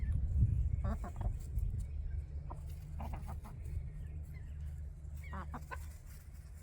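Backyard hens clucking and giving short calls: a few about a second in, more near three seconds, and another cluster a little after five seconds, over a steady low background rumble.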